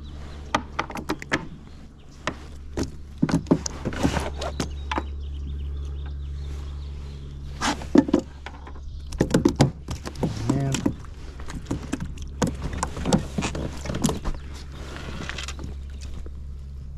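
Irregular knocks, clicks and clatter of a hooked trout being handled and unhooked aboard a plastic fishing kayak, over a steady low hum, with a few brief grunts partway through.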